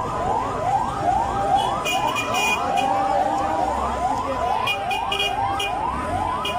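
Emergency vehicle siren wailing in a fast yelp, a rising sweep repeating about three times a second over a steady tone. Short high-pitched beeps come in two clusters, about two seconds in and about five seconds in.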